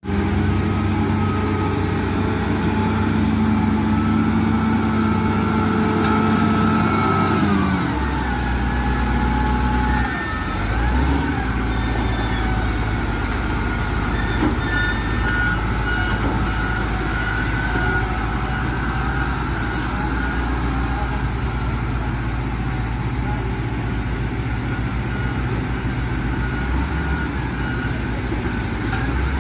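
Wheel loader's diesel engine working hard at high revs. About eight seconds in it drops to a lower, steady running.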